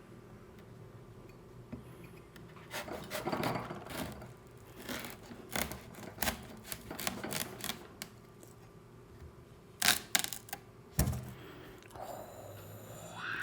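Close-up handling sounds of food and kitchenware: rubbing and scraping with a scatter of sharp clicks, and two loud knocks a little over halfway through.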